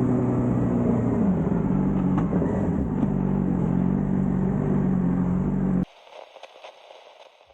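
Suzuki GSX-R600 inline-four engine and exhaust under way at highway speed, its pitch dropping a little over a second in and then holding steady. The sound cuts off suddenly about six seconds in, leaving only faint sound.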